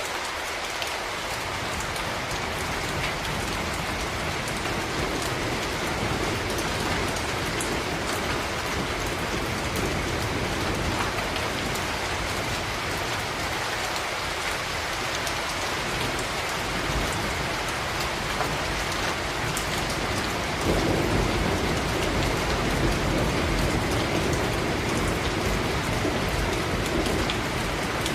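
Steady rain falling on a surface. About two-thirds of the way through, a low rumble of thunder comes in and rolls on nearly to the end.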